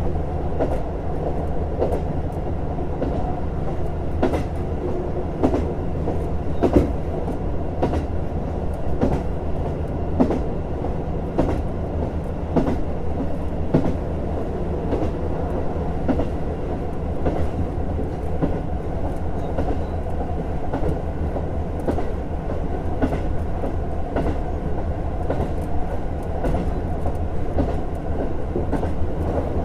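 JR Hokkaido KiHa 150 diesel railcar running on the line: a steady diesel engine drone under frequent, irregular clicks and knocks of the wheels over the rails.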